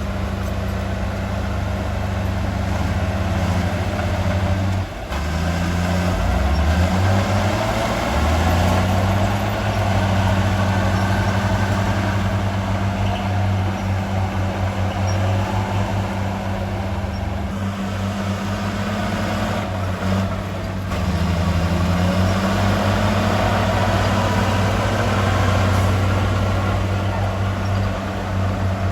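Heavy diesel engine of earthmoving equipment running, its pitch rising and falling as the throttle changes, with a brief drop about five seconds in.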